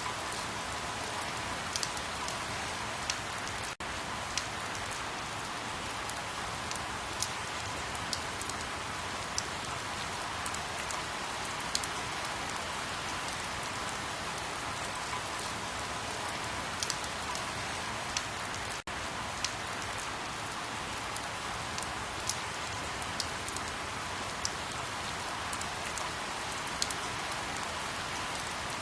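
Steady rain falling, with scattered sharp drop clicks over a constant hiss; the sound briefly cuts out twice, about four seconds in and again near nineteen seconds.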